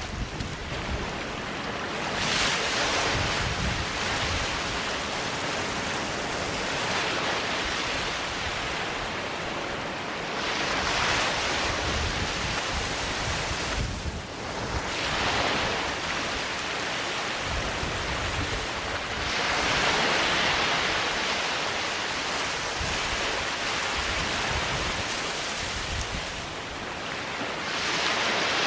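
Sea waves breaking and washing up on a sandy beach, the surf swelling into a louder surge every several seconds, about five times.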